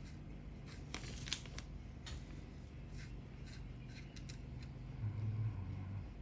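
Scattered light metallic clicks and scrapes of needle-nose pliers and small metal parts being worked on a motorcycle carburetor, with a brief low hum about five seconds in.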